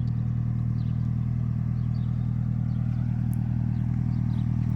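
Nissan 180SX's four-cylinder turbo engine idling steadily with an even low pulse.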